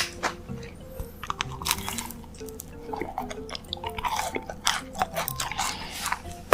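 Close-miked chewing of a macaron, with irregular crisp crunches from the shell, over soft background music.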